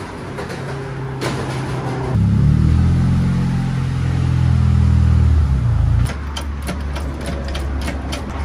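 Honda Prelude's engine running, louder and rising slightly in pitch from about two seconds in as the car moves, then cutting off suddenly about six seconds in. A run of sharp clicks and knocks follows near the end.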